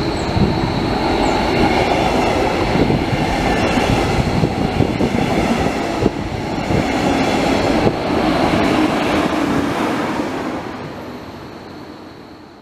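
A red DB Regio double-deck passenger train passing: wheels rolling and clattering over the rails, with a thin, steady high whine above the rumble. The sound fades away near the end.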